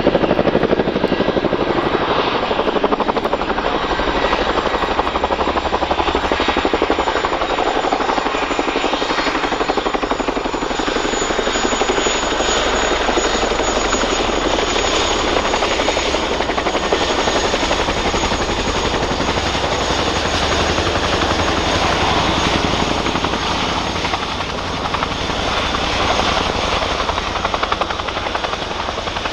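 Boeing Chinook HC4 tandem-rotor helicopter running steadily, its two rotors beating with a thin high turbine whine over them.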